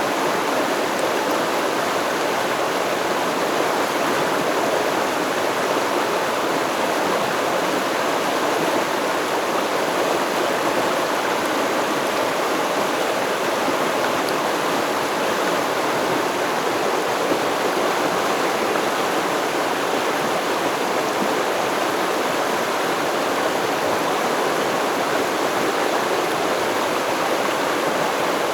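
Flowing stream water, a steady, unchanging rush.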